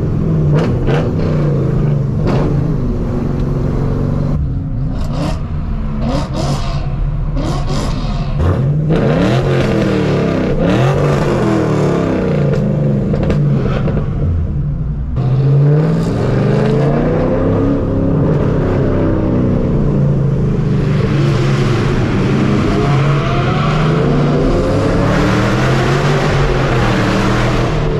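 Straight-piped 5th-gen Camaro SS V8 exhaust on the move, a steady low drone with the engine note rising and falling several times as it accelerates and lets off.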